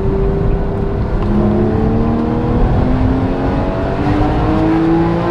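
Porsche GT3 RS's 4.0-litre flat-six engine heard from inside the cabin under hard acceleration, its note climbing steadily as the revs rise after a downshift.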